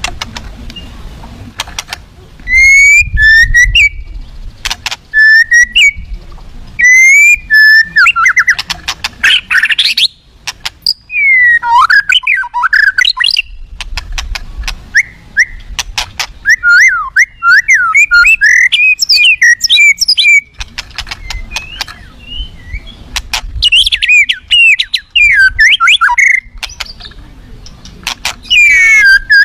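White-rumped shama (murai batu) singing loudly in an aggressive style: short repeated whistled phrases, then long runs of rapid, varied warbling notes, with sharp clicks between phrases.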